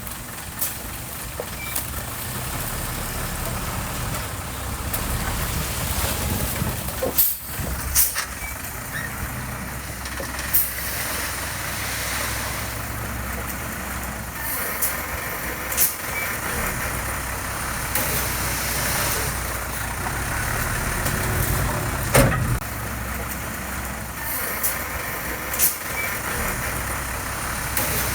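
Diesel engine of heavy construction machinery running steadily, with a sharp metallic clank or knock every few seconds, the loudest about a quarter of the way in and about three-quarters through.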